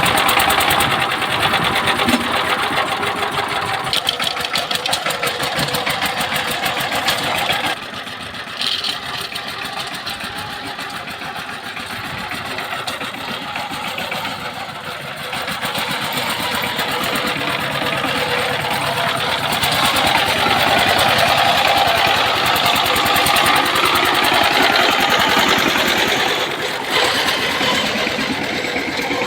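A power tiller's single-cylinder diesel engine running with a rapid, even chatter, dropping a little in level about eight seconds in and picking up again about twelve seconds later.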